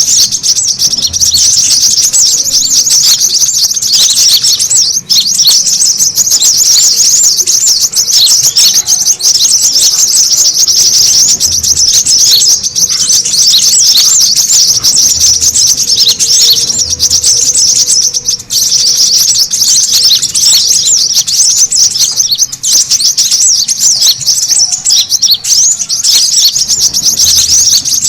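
Brown-throated sunbirds chattering in a noisy, excited chorus: a dense, unbroken stream of rapid high chirps and trills, the busy calling used as a lure call to draw other birds in.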